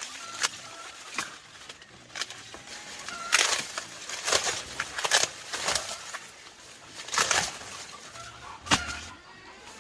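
Dry plant material rustling and crunching in separate bursts every second or so, with a chicken clucking faintly now and then.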